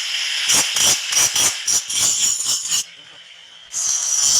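Metal being worked by hand: a quick run of sharp strokes, about four or five a second, with a jingling metallic ring. The strokes break off near the end, and a steady high hiss follows.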